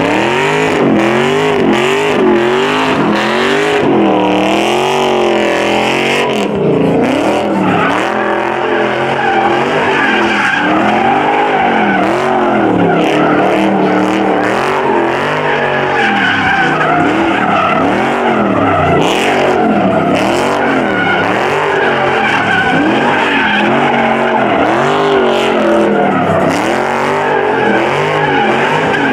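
A muscle car's engine revving up and down over and over, roughly every half second, with its tyres squealing and skidding as they spin.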